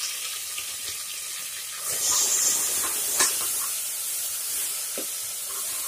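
Garlic paste sizzling in hot oil with fried onions, the hiss growing louder about two seconds in as it is stirred with a spatula. There is one sharp click partway through.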